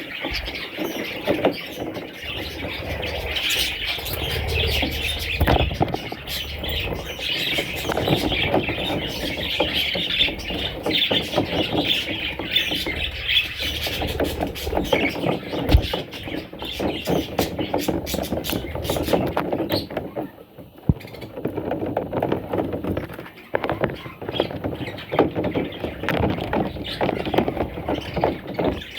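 Budgerigar chicks chirping in a continuous, dense chatter, with a short lull about two-thirds of the way through.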